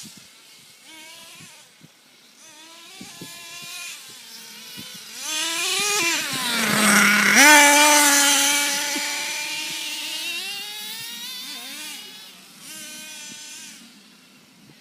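Losi radio-controlled truck's motor whining as it speeds up and slows down, the pitch rising and falling several times. It is loudest from about six to ten seconds in, when the truck runs hardest or closest.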